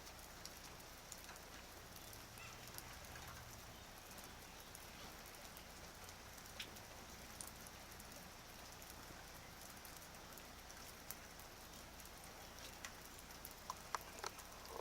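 Faint steady rain with scattered drops ticking, a few sharper ticks near the end.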